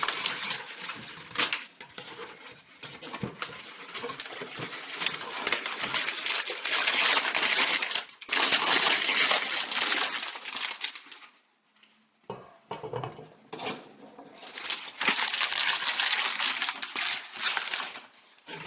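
Packaging crinkling and rustling as a hurricane lantern is unwrapped and lifted out of its box, with scattered light clicks and clinks. The handling stops briefly about two-thirds of the way through.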